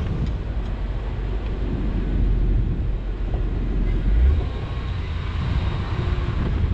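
Plow truck's engine running, a steady low rumble with road and mechanical noise.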